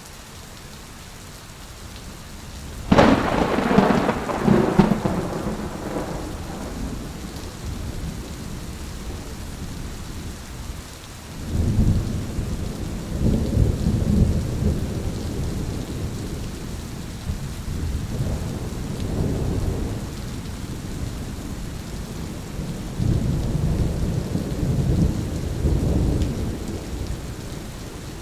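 Steady rain with thunder: a sharp thunderclap about three seconds in that crackles and fades over a few seconds, then long low rolling rumbles of thunder through the second half.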